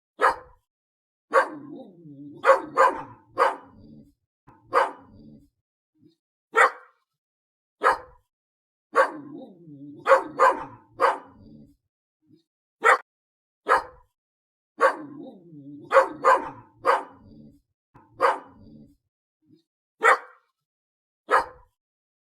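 A dog barking repeatedly: sharp single barks and quick runs of two or three, with lower, rougher sounds between some of them.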